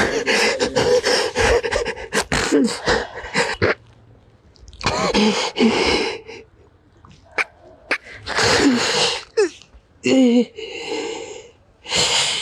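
A person weeping: irregular sobs with sharp, noisy breaths and sniffles, broken by short wavering voiced cries, with brief quiet gaps between them.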